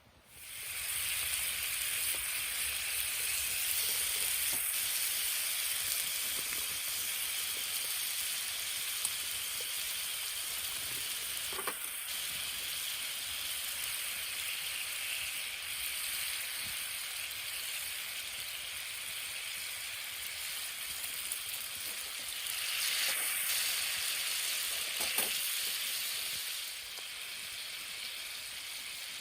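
Steady sizzling of food frying in a pan, with a few faint clicks about 12 and 25 seconds in.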